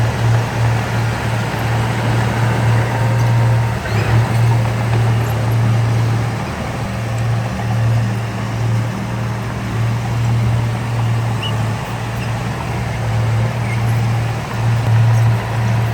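Heavy diesel engine of construction machinery running steadily under load, a continuous low drone that dips slightly now and then, with a brief knock about four seconds in.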